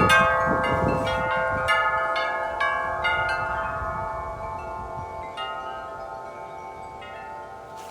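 Wind chimes being struck repeatedly by strong gusts, many metal tones ringing over each other. The strikes come thick in the first few seconds, then thin out, and the ringing dies away as the gust eases. A low rumble of wind is heard at the start.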